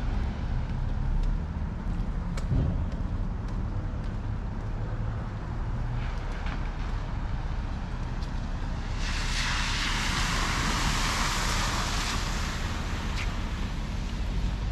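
Street traffic with wind rumbling on the microphone, and a louder hiss for about three seconds starting around nine seconds in.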